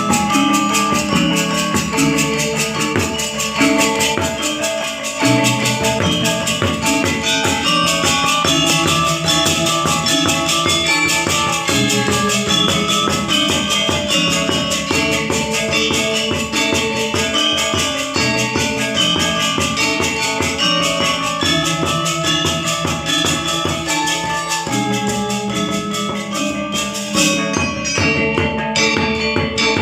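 Balinese gamelan gong ensemble playing: bronze metallophones and gongs strike fast, even patterns under a constant clashing shimmer of small cymbals. The cymbal shimmer drops out briefly near the end, then comes back.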